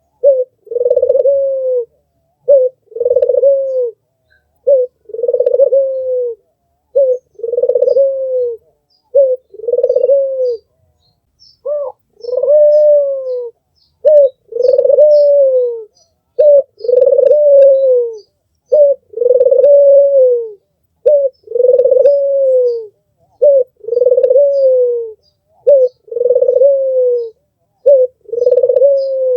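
Albino puter (white, red-eyed Barbary dove) cooing over and over. Each call is a short note followed by a longer coo that bends down at the end, coming about once every two seconds.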